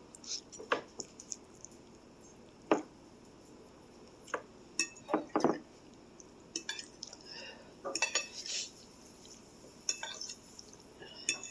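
An eating utensil clinking against a bowl of noodles: a series of short, separate clicks and clinks at irregular intervals.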